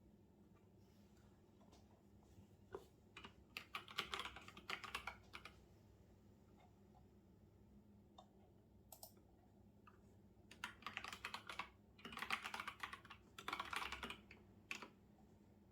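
Typing on a computer keyboard: faint flurries of quick key clicks, a short run in the first half and two longer runs near the end, with pauses between.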